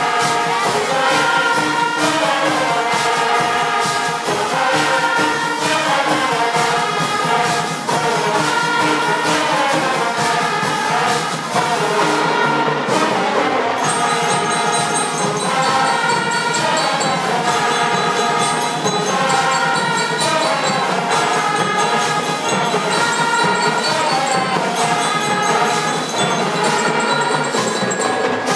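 Band music with a steady beat and a melody over it, playing without a break.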